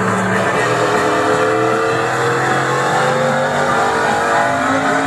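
Car engine running, its pitch slowly drifting as the revs change.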